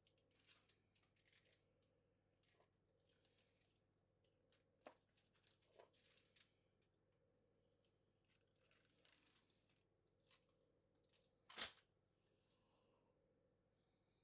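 Faint food-preparation handling noises: soft rustling and scattered light clicks, with one sharper click or tap about two-thirds of the way through.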